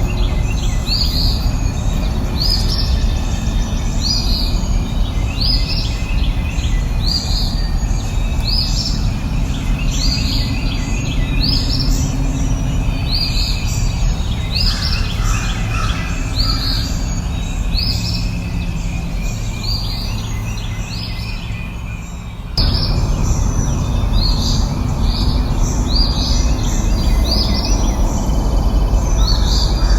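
A bird repeating a short chirp about once a second over a steady low rumbling background noise. The background cuts and comes back louder abruptly about 22 seconds in.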